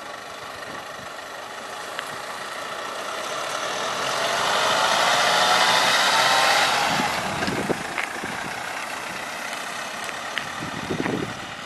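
A vehicle's engine and road noise drive past, building over a few seconds, loudest about halfway in, then fading, with a few light knocks near the end.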